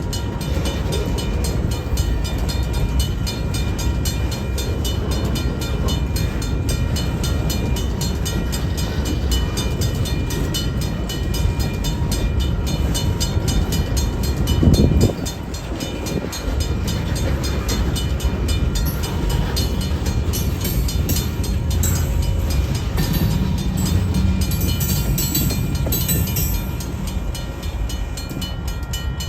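Freight train rolling past, a steady loud rumble of wheels on rail with fine repeated clicking, a brief louder burst about halfway and some short high-pitched noise in the second half.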